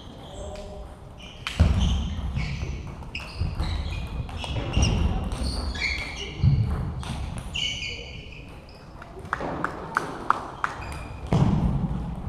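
Table tennis play in a large hall: shoes squeaking on the floor and heavy thuds of footwork throughout, then a quick run of sharp clicks of the celluloid ball off bats and table about three-quarters of the way in.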